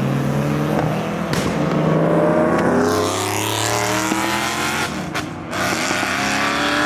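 Modified car's engine accelerating hard as it pulls away, its note climbing in pitch and dropping back at gear changes about a second and a half in and again about five seconds in.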